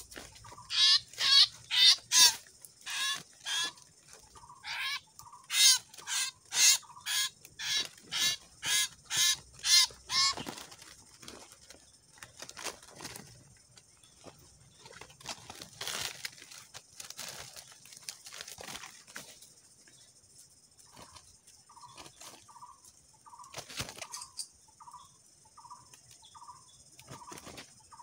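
A bird giving a rapid run of loud, harsh, short calls, one or two a second, which stops about ten seconds in. After that a steady high insect buzz continues, and near the end a faint call repeats about twice a second.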